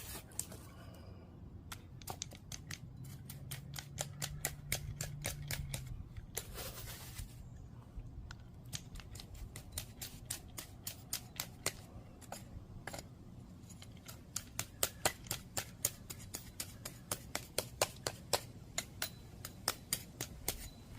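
Hand tool working cold-patch asphalt into a driveway pothole: a long run of sharp clicks and scrapes of metal on gritty patch material, settling into an even tapping of about three a second in the second half.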